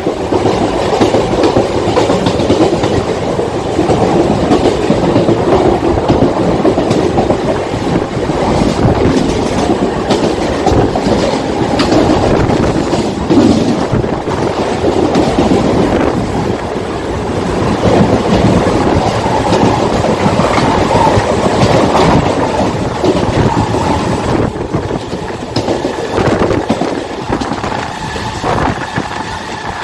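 Mumbai suburban electric local train running at speed, heard from on board: a loud, steady rumble with the wheels clattering over the rail joints.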